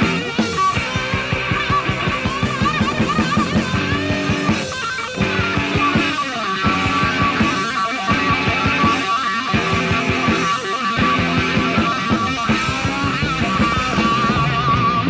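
Hard rock band playing an instrumental passage with no vocals. An electric guitar lead plays long, wavering, vibrato-laden notes over the backing of the rest of the band.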